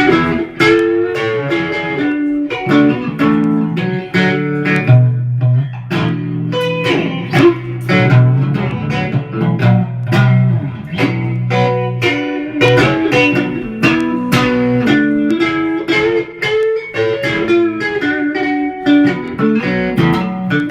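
Guitar playing a blues riff: quick plucked notes over a repeating low bass line.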